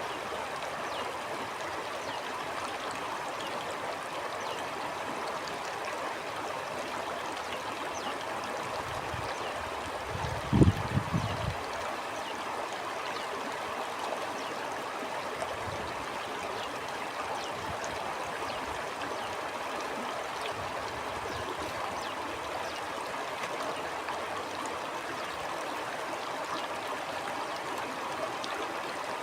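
Steady rush and gurgle of a flowing stream. About a third of the way in, a short low rumble rises above the water.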